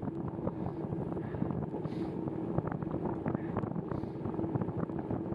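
Wind buffeting the microphone over the hiss of bicycle tyres on wet pavement during a ride in the rain, with many scattered small ticks throughout.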